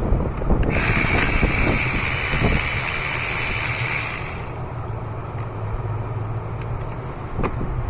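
Cordless electric ratchet running for about four seconds with a steady whine, then stopping, as it turns a fastener on the rearmost cylinder of the V8.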